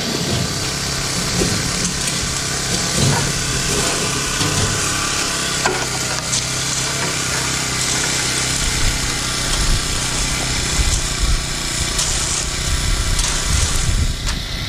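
A small petrol engine running steadily, with scraping and irregular low knocks over it.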